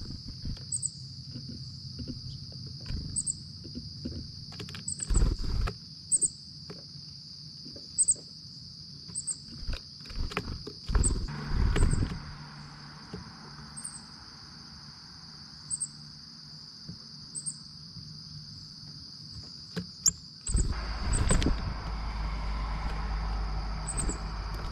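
A steady, high-pitched insect chorus, crickets or similar, with short high chirps every second or two. Irregular taps and knocks sound over it. About 20 seconds in, a low rumble starts and keeps going.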